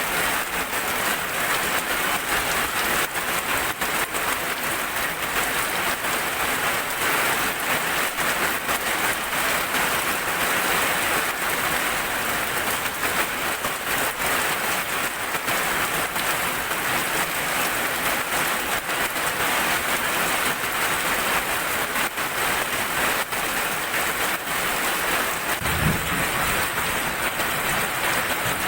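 Steady rain falling, a dense even hiss of drops striking surfaces. There is a brief low thump near the end.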